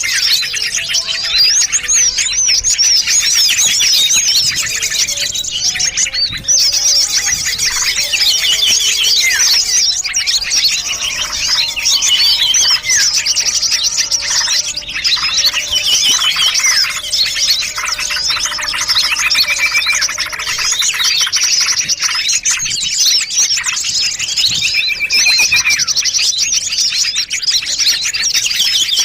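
A dense, unbroken chorus of many small songbirds chirping, trilling and calling over one another: a mixed lure track meant to draw small birds in.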